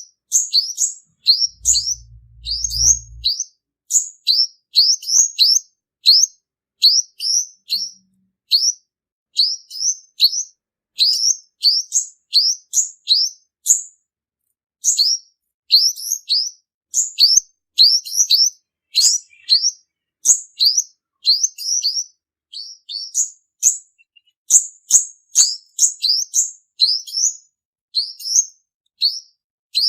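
Male olive-backed sunbird (purple-throated sunbird) singing: runs of rapid, high, thin chirping notes, several a second, with brief pauses between phrases.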